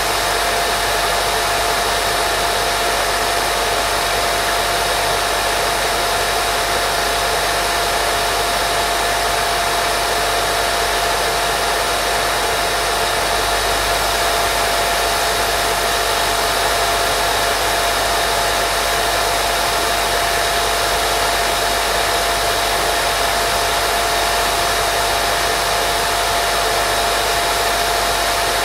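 Steady, unbroken white noise used as a baby sleep sound: an even hiss with a constant mid-pitched hum running through it.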